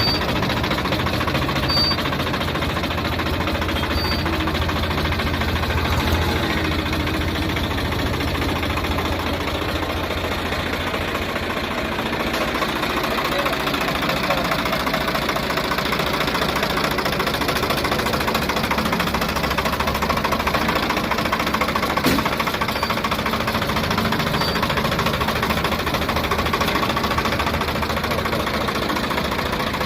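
Swaraj 855 tractor's diesel engine running steadily. Its deep low hum fades about twelve seconds in.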